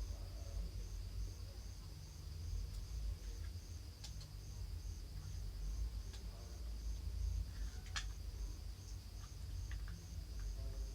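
Steady low hum with a faint, evenly pulsing high chirp like an insect, and a few light clicks.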